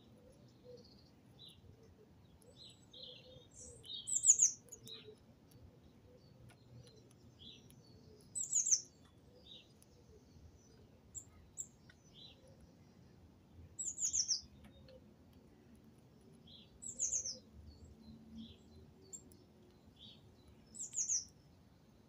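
Small songbirds chirping: five loud, high, downward-sliding calls a few seconds apart, with fainter short chirps in between.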